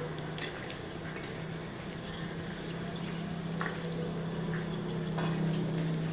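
Lumps of charcoal clinking and clattering as they are tipped into a charcoal-fired furnace, a few sharp knocks close together early on and scattered ones later. A steady low hum runs underneath, from the furnace's electric blower.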